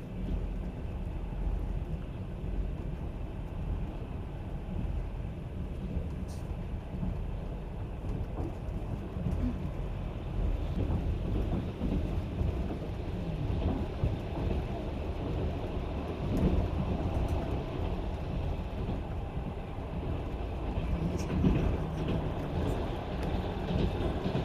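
Rossiya passenger train running on the Trans-Siberian Railway, heard from inside the carriage: a steady low rumble of wheels on rail.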